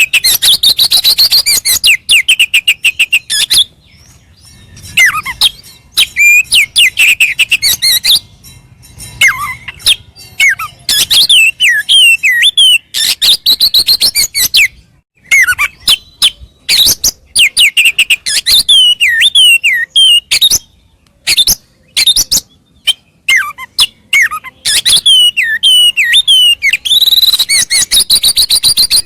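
Oriental magpie-robin (kacer) singing loudly in its aroused, fighting-ready song. It alternates fast rattling chatter with strings of falling whistled notes, in phrases broken by short pauses.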